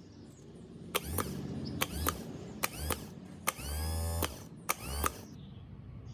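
The generator's restored starter worked in five quick strokes about a second apart, each a click with a short low thud and a metallic ringing that falls in pitch. The fourth stroke runs longer. The engine does not fire, with no fuel in it yet.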